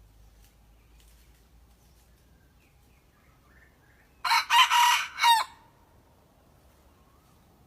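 A young red junglefowl rooster crowing once, a short, broken crow lasting about a second, about four seconds in, typical of a cockerel still learning to crow.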